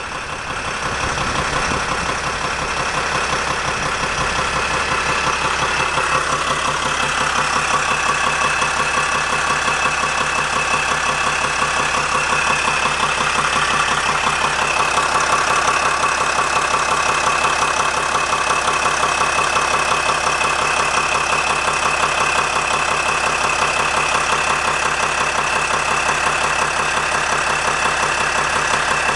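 2007 Sprinter van engine running steadily at idle with a rapid, regular knocking, which the owner attributes to the torque converter.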